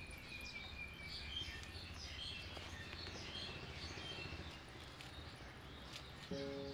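Faint, scattered high chirps of small birds over low background noise. A music track starts near the end.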